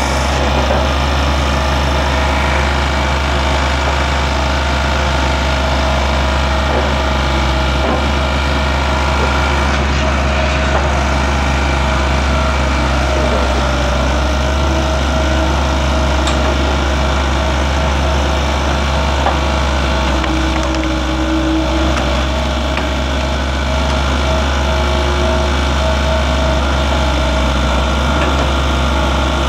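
Skid steer engine running at a steady speed, powering its hydraulic log splitter attachment.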